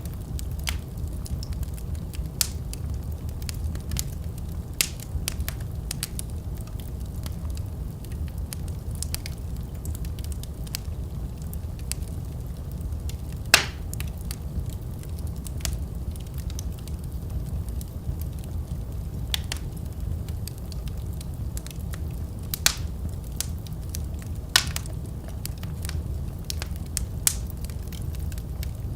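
Wood fire burning in a fireplace: a steady low rumble of the flames with irregular sharp crackles and pops, two of them louder, about halfway through and near the end.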